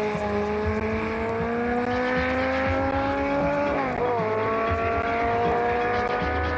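Rally car engine pulling hard under acceleration, its pitch climbing steadily. About four seconds in, a sharp drop in revs marks a gear change, and then it climbs again.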